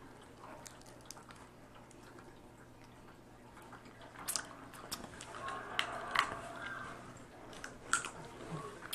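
Dungeness crab being broken apart and eaten: after a few quiet seconds, scattered sharp cracks and clicks of shell with wet squishing and chewing, starting about four seconds in.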